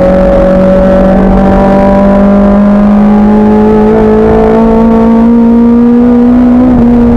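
Racing car's engine running hard under load, its pitch climbing slowly through one gear and starting to drop right at the end as the throttle eases.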